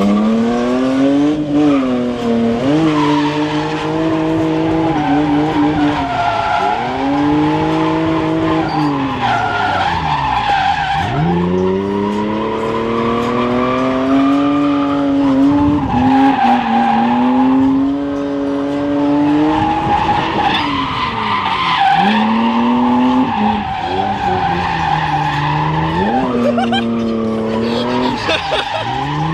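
Drift car engine revving hard, its pitch climbing and holding, then dropping sharply every few seconds, while the tyres squeal through the slides.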